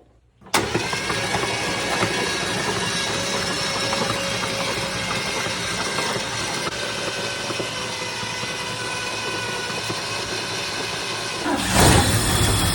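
1973 Ford F250 engine being cranked over by the starter motor, a steady mechanical whirring with a fixed whine, which starts suddenly and grows louder near the end. The engine is being turned over to check its compression on a first start-up attempt.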